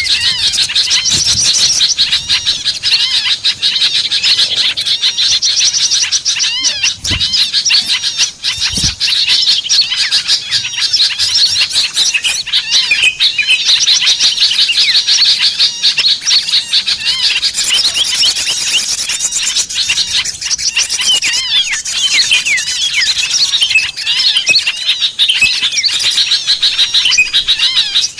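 A noisy chorus of many small songbirds chirping and twittering at once, a dense overlapping stream of short, high calls and trills: a bird-lure recording used to draw small wild birds in.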